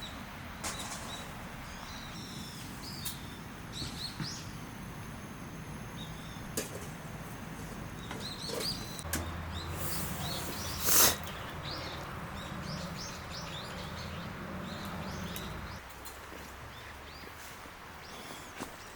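Outdoor ambience with small birds chirping in short repeated calls. A steady low rumble starts about nine seconds in and stops near sixteen seconds, and one loud brief whoosh or thump comes about eleven seconds in.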